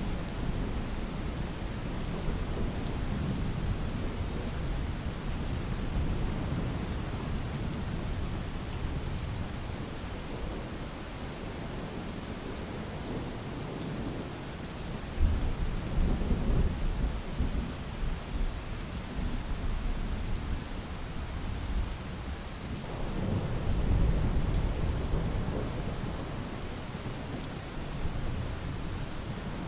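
Steady rain falling, with thunder rumbling low in the background, swelling about halfway through and again later.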